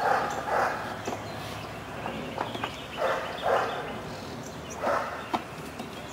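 A dog barking: short barks in two pairs and then a single one. A few sharp clicks come after the last bark.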